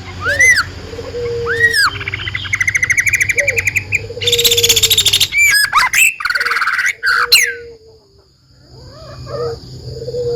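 Songbirds singing: loud arched whistled notes and fast rattling trills, one after another, with a low repeated note underneath, pausing briefly about eight seconds in before picking up again.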